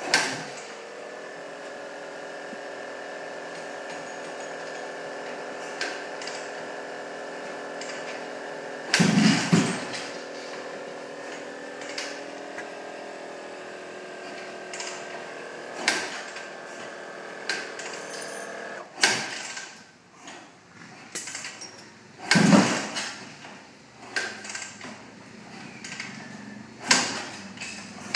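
A small motor whining steadily and stopping about nineteen seconds in, with several loud knocks and clatters, the loudest around the middle and after the whine stops.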